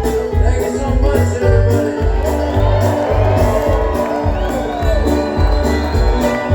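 Bluegrass-style string band playing live, with a steady bass beat under guitar and other plucked strings.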